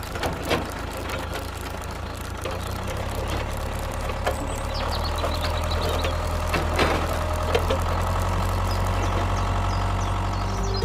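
A tractor engine running steadily with an even low hum, with a few short, high chirps scattered over it.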